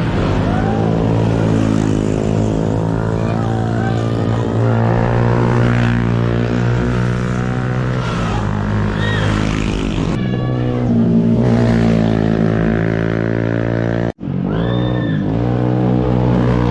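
Motorcycle engine running steadily, its pitch shifting a little about ten seconds in. The sound breaks off for an instant near the end, then carries on.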